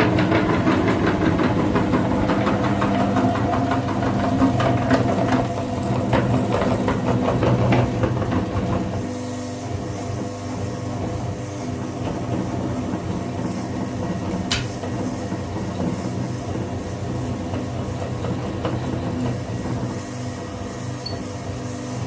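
Mini tractor running with a rapid mechanical rattle, settling to a quieter, steadier run about nine seconds in.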